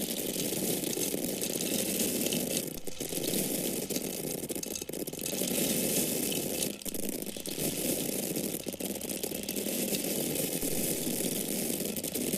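Dry corn kernels or grains pouring and falling, a dense steady patter of tiny hard clicks with a few brief dips.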